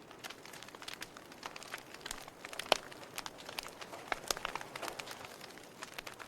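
Wood fire crackling in a fireplace: irregular sharp pops and snaps over a soft hiss, with one louder pop nearly three seconds in.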